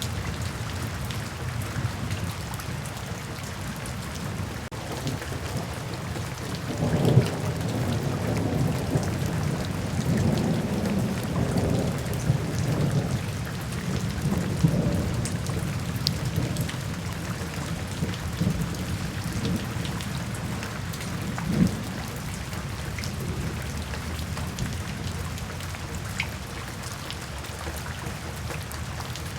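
Steady rain falling, with a roll of thunder that breaks about a quarter of the way in and rumbles on in waves for some fifteen seconds before fading.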